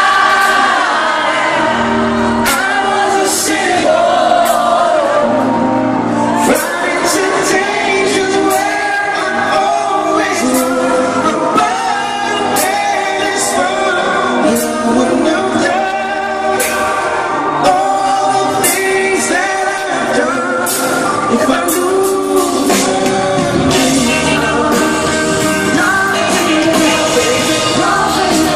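Live pop music with a male lead voice singing a slow song over band accompaniment, echoing in a large concert hall.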